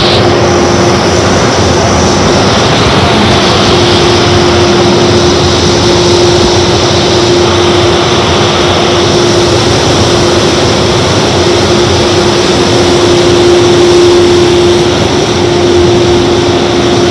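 Car wash tunnel dryer blowers running: a loud, steady rush of air with a steady droning hum that grows stronger a few seconds in.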